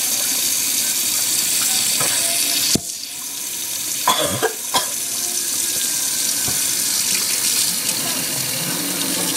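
Water running from a sink tap in a steady hiss. About three seconds in it cuts out briefly after a click, then comes back, with a few short sounds just after.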